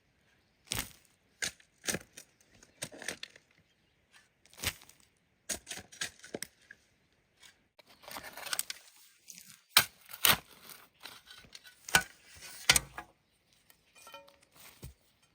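Irregular sharp knocks and scrapes of hand-tool construction work, with a busier stretch of scraping and clacking in the second half.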